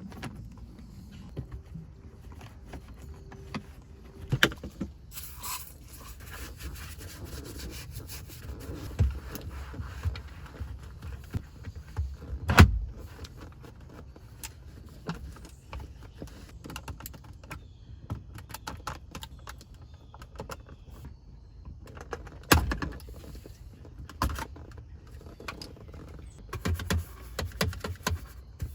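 Handwork inside a car: scattered clicks, knocks and scraping of interior parts being handled, with two sharp knocks, one near the middle and one later on.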